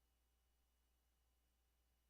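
Near silence: only a faint steady electrical hum and hiss.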